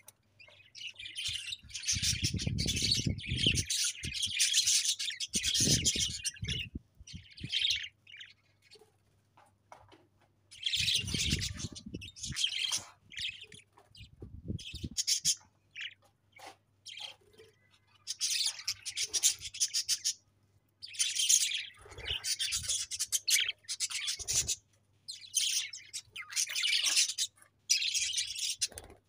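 Budgerigars chirping and warbling in busy high-pitched bursts with short pauses between them, with a few low rumbles mixed in.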